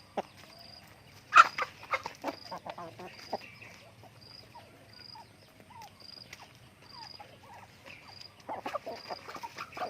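Chickens clucking in short bursts, with one loud squawk about a second and a half in and another flurry of clucks near the end. Under them, a faint high chirp repeats evenly about once every two-thirds of a second.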